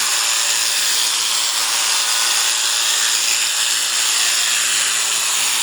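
Electric sheep shears running steadily with an even, high buzzing hiss.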